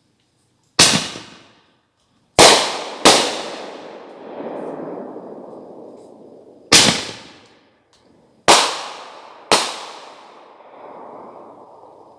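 Fireworks going off: six loud bangs, the first under a second in, two close together around two and three seconds, and three more later, each followed by a long fading rumble.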